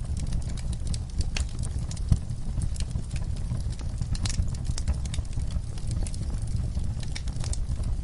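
Wood fire burning in a fireplace: a steady low rumble of flames with irregular crackles and pops scattered throughout, a sharper pop about two seconds in.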